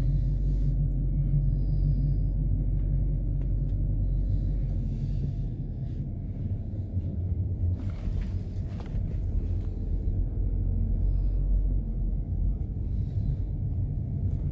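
Steady low rumble, with a few faint clicks about halfway through.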